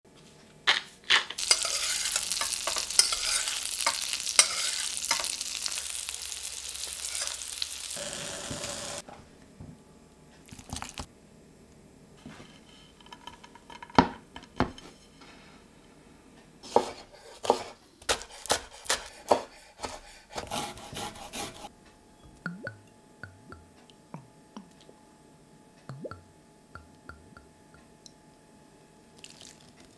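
Food sizzling and crackling in a hot frying pan for about eight seconds, cutting off suddenly. After it come scattered knocks, clicks and taps of kitchen utensils and dishes, growing fainter near the end with light clinks.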